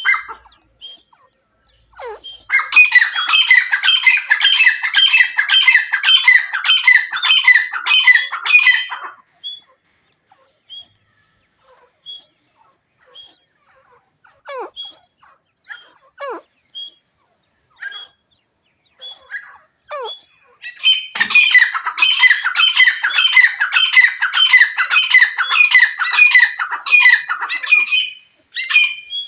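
A partridge (Iranian teetar) calling: two long bouts of rapid, repeated harsh notes, the first starting about two seconds in and the second in the last third. Between them come scattered short single calls.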